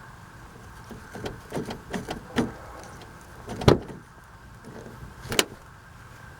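A run of light clicks and knocks, then two sharper, louder knocks about a second and a half apart, over a steady low hum.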